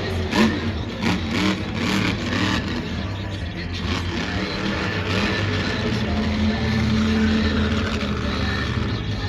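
Supercharged, alcohol-fuelled monster truck engine revving: its pitch rises and falls in the first few seconds, then holds steadier at high revs.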